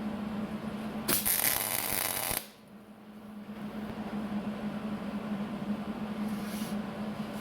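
Welder laying a tack weld on a steel car bumper: a crackling, hissing arc for just over a second, starting about a second in and cutting off abruptly, over a steady electrical hum.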